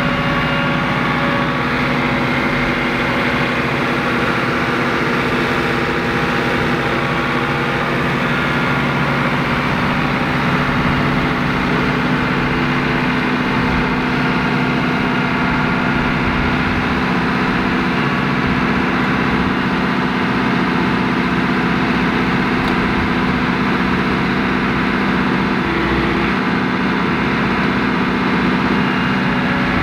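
Compact tractor's diesel engine running steadily at an even speed.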